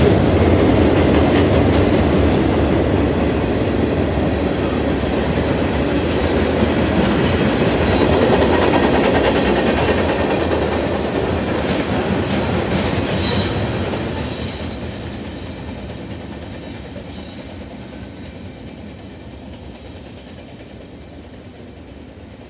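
Mixed freight train's cars rolling past close by: the steady noise of steel wheels on rail. It fades from about fourteen seconds in as the last cars pass and the train moves away.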